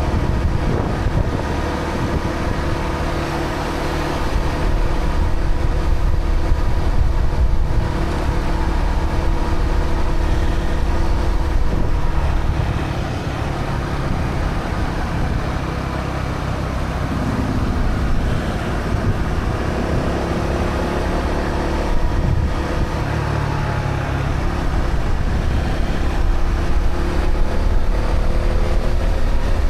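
Honda CB125R's 125 cc single-cylinder four-stroke engine running through its stock exhaust while riding, with road and wind noise. The engine note eases off for a few seconds about halfway, then picks up again.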